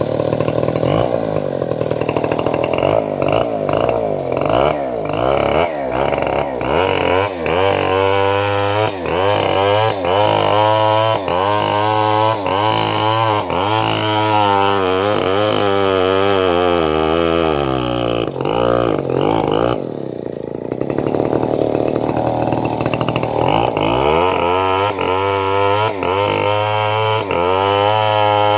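Engine-driven homemade log bandsaw running while cutting trembesi wood, the engine note rising and falling about once a second as the blade takes the load. About eighteen seconds in it sags lower and quieter for a few seconds, then picks up again.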